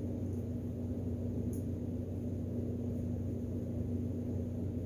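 Steady low room hum with one constant tone running through it, with a few faint light ticks.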